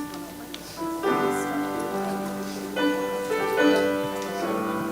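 Piano music: slow sustained chords, soft at first and fuller and louder from about a second in.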